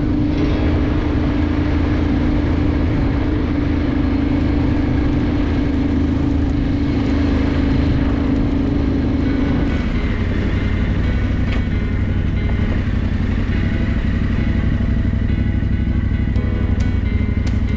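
KTM 450 single-cylinder enduro motorcycle engine running steadily under way, its note changing about halfway through, with a few sharp ticks near the end.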